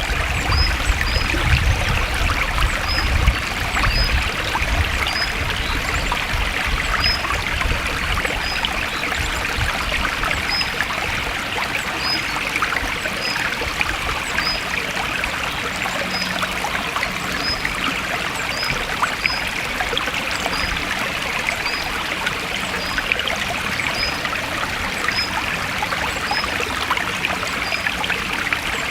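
Forest stream running and trickling steadily. Faint short high chirps repeat about once a second over the water, and a low rumble in the first few seconds fades out.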